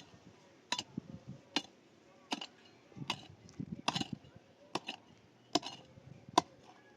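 Steady, regular blows of a hand tool striking a hard surface, about one every 0.8 seconds, eight in all, each a sharp crack.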